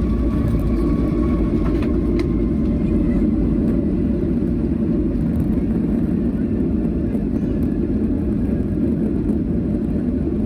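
Steady low rumble of a vehicle in motion, holding an even level throughout, with a faint whine in the first couple of seconds.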